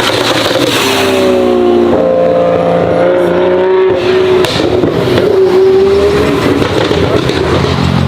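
A high-performance sports car engine accelerating hard, loud, its note changing pitch several times as it pulls.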